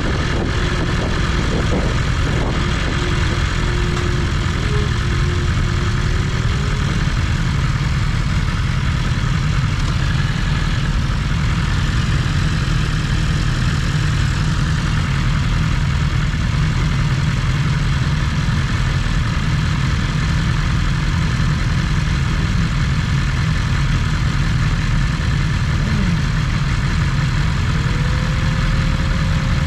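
BMW S1000RR under way at a steady pace: an even rumble of engine and wind with no revving or gear changes.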